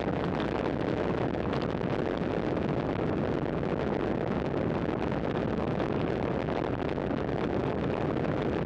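Steady wind rush on the microphone with the road noise of a bicycle ridden at speed.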